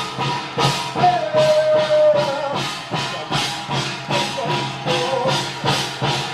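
Korean ritual music with percussion striking an even, quick beat, about three strokes a second with a bright jingling shimmer, and a few held melodic notes, the longest about one to two and a half seconds in.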